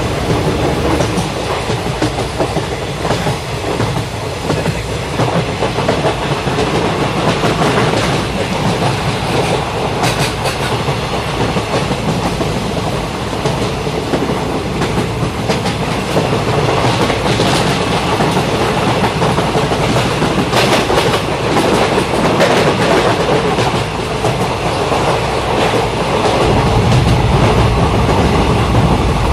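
Passenger train coaches rolling past along a station platform: a steady rumble with the wheels clicking over the rail joints, growing a little louder near the end.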